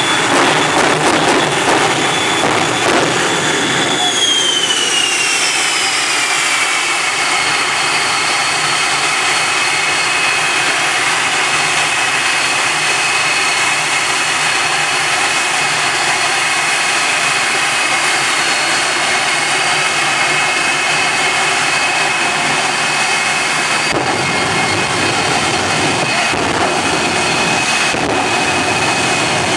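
Jet engines of the Super Shockwave jet truck running, a loud roar with a high whine that drops in pitch about four seconds in and then holds steady.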